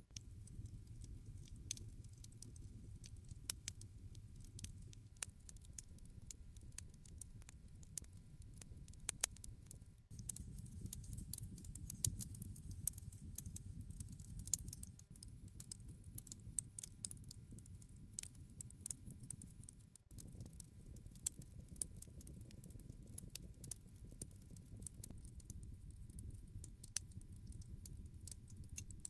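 Wood campfire burning: a steady low rumble of flames with frequent sharp crackles and pops scattered throughout.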